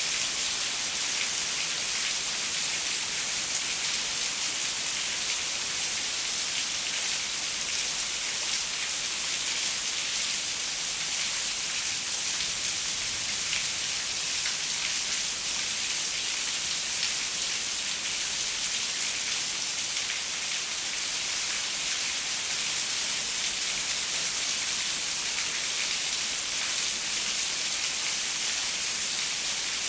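Steady rain pattering on a window, an even hiss of many fine drops with no let-up.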